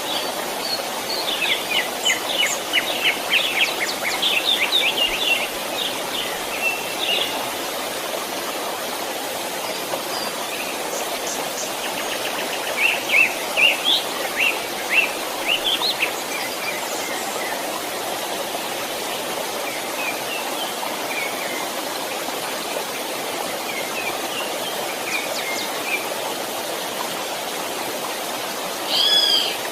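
Steady rush of a gently flowing stream, with songbirds chirping over it in clusters of quick notes and one louder call near the end.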